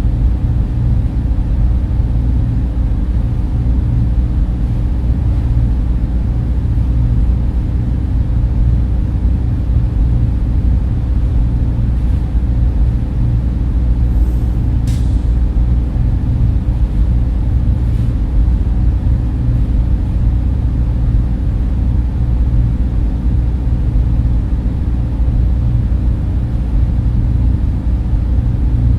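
Steady, low-pitched hum of a data center's server and cooling fans, even and unbroken, with a few faint ticks near the middle.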